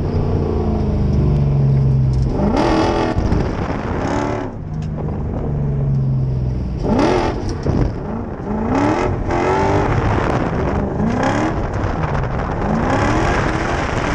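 Lexus 1UZ VVT-i V8 in a Mazda B2200 mini truck being revved hard while drifting, its pitch climbing and dropping again several times in repeated surges.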